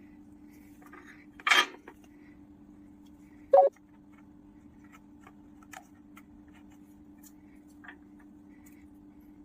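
Paper craft pieces and a disposable plate being handled while pasting: a brief rustle about one and a half seconds in, a sharper knock about two seconds later, and a few faint ticks, over a steady low hum.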